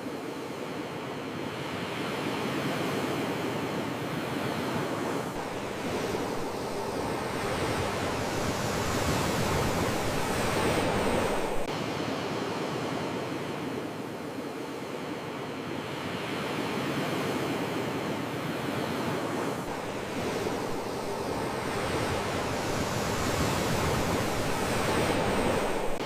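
Ocean surf washing onto a shore, a steady hiss and rush of breaking waves. The wash builds twice, peaking about eleven and twenty-five seconds in.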